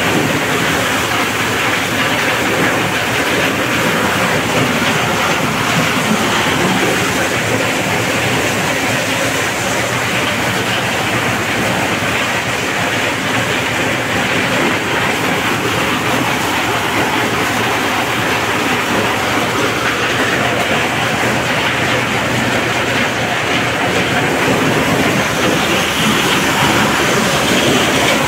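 Motorized corn sheller running steadily as it strips kernels from the cobs, a loud, unbroken mechanical noise with a low hum underneath.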